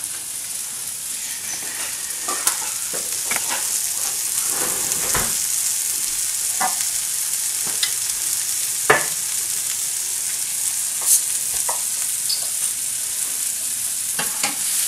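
Sliced onions and garlic sizzling in a frying pan on a gas burner, a steady hiss with a few scattered light clicks and knocks, the sharpest about nine seconds in.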